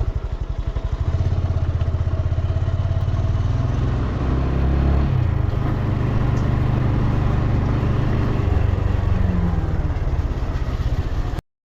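Honda Grom's single-cylinder engine running with an even, rapid pulsing beat. It cuts off suddenly near the end.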